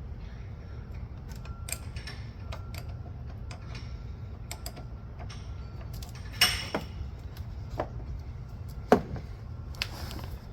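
A 10 mm spanner working on a nut or bolt, with irregular light metallic clicks and ticks. Two louder knocks land past the middle and near the end.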